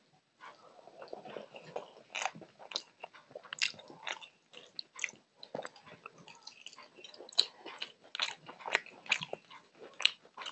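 Close-miked chewing and biting as a man eats chicken curry with rice by hand: many sharp mouth clicks in an uneven run.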